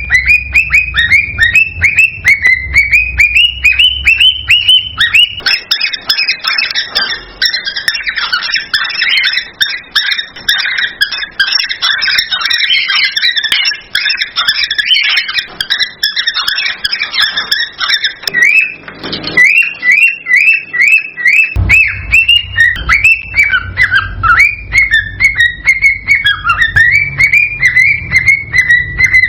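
Cockatiels calling and whistling in a rapid series of rising chirps, with several birds overlapping in a busier stretch through the middle.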